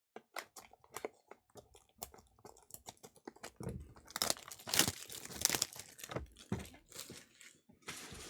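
Crinkling and tearing of plastic wrapping as a sealed trading-card box is opened: scattered small crackles at first, then a louder run of tearing and crinkling about halfway through.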